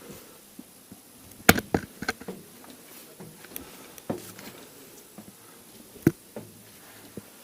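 Irregular knocks, taps and scuffs of people moving over rock, with a sharp knock about a second and a half in and another about six seconds in.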